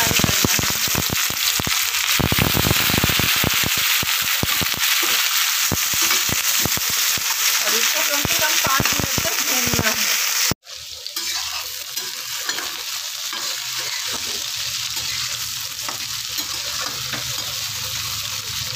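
Steamed cluster figs frying in hot oil in a pan: a loud, crackling sizzle with spattering. It breaks off abruptly about ten seconds in and then runs on as a quieter, steadier sizzle while a steel spatula stirs them.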